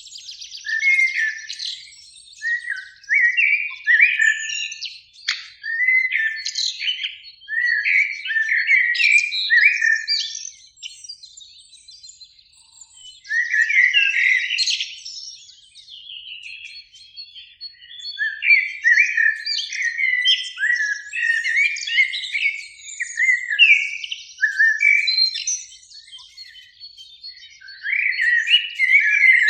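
Common blackbirds singing: repeated short phrases of low, fluty whistled notes, some with high squeaky twittering, with brief pauses between bouts.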